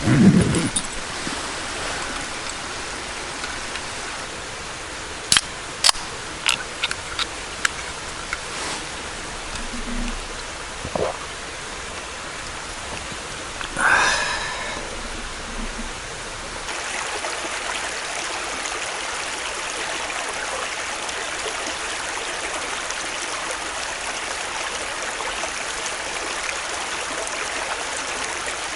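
Steady rushing of flowing water, with a cluster of sharp clicks about five to eight seconds in and a short rising sound about halfway; from about seventeen seconds the rushing turns brighter and a little louder.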